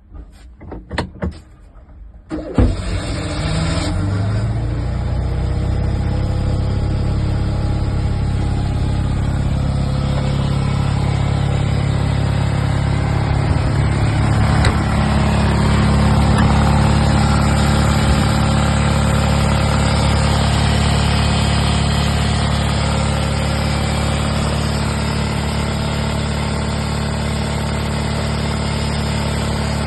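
Abarth 595 replica's engine being started: a few short cranking sounds, then it catches about two and a half seconds in and settles into a steady idle. It runs evenly, a sign that the engine is in good condition.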